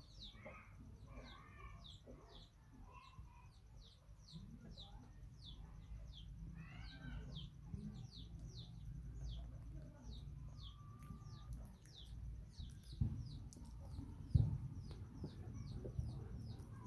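Birds peeping over and over, short high chirps that slide downward, a few each second, faint. Two dull thumps near the end, the second the loudest.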